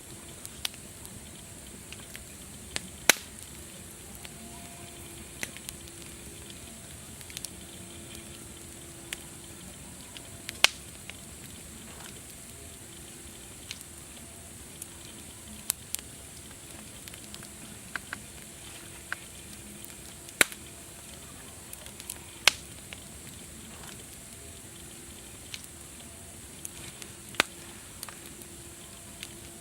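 Wood fire crackling: a steady hiss broken by irregular sharp pops, a few of them loud.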